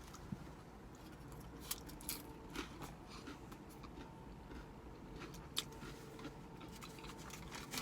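Someone eating soup, with quiet chewing and scattered small clicks, over a faint steady low background rumble.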